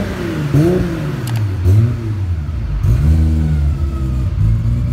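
Car engine revving, its pitch climbing and dropping again several times before settling into a lower, steadier note, with a sharp click about a second in.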